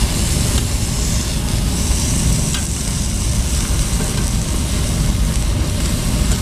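Pre-grilled pork belly sizzling on a grill, a steady dense frying noise with a few faint clicks.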